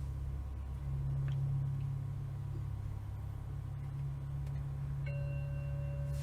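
A steady low hum throughout; about five seconds in, a meditation timer's singing-bowl chime sounds and rings on with a steady tone, marking the end of a two-minute interval.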